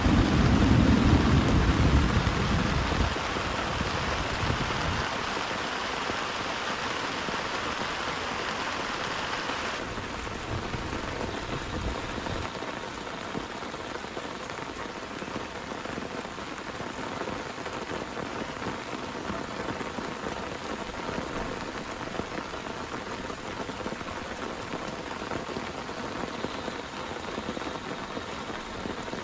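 Heavy rain falling steadily, with a low rumble of thunder that fades out over the first three seconds or so. About ten seconds in, the rain's hiss turns a little duller.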